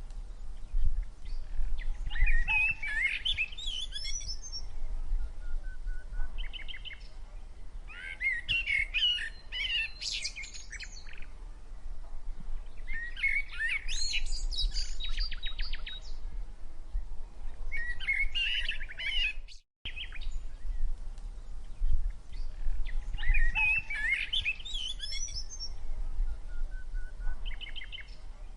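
Java sparrows (gelatik) chirping in bursts every few seconds, with a quick rattling run of notes partway through, as they squabble over hanging food. A low rumble runs underneath, and the sound cuts out for a moment about two-thirds of the way in.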